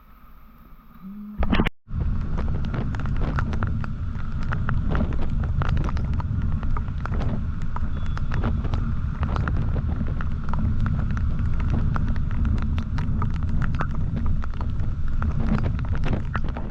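Wind rushing over the microphone of a riding motorcycle, steady and loud, with road and engine noise underneath and many short crackling buffets. It starts abruptly about two seconds in, after a sharp bang and a short dropout that end a quieter stretch.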